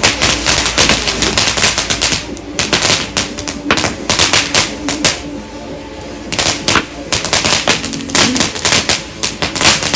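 Fireworks crackling: rapid strings of sharp cracks and pops in several volleys, with brief lulls between them.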